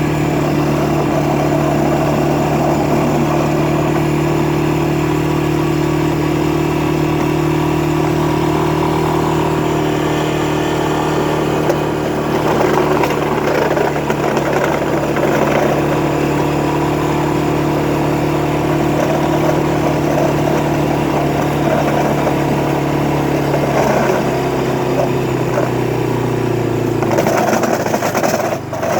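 Honda ATV engine running at a steady speed, then its pitch falls as it slows a little over three-quarters of the way through.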